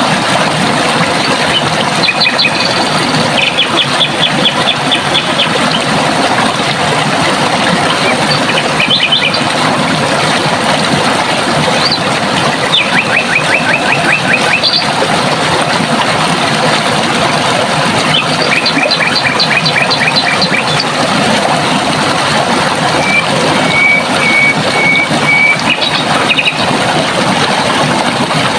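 Running water rushing steadily, with birds singing over it in several quick trills of rapidly repeated high notes, and late on a run of about five even whistled notes.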